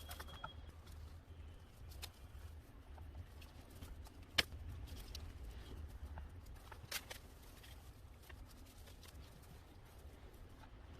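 Faint low hum with scattered light clicks and taps, the sharpest one about four seconds in.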